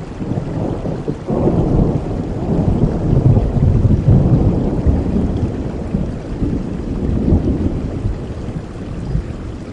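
A thunder roll over steady rain: the rumble breaks in about a second in, swells to its loudest a few seconds later, then slowly dies away while the rain continues.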